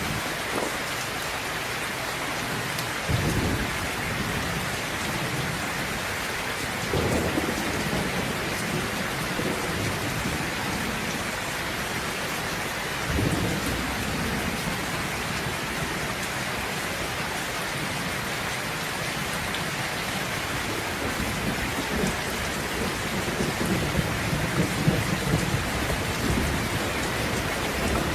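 Steady heavy rain with rolling thunder: low rumbles swell about three seconds in, again around seven and thirteen seconds, and a longer rumble builds near the end.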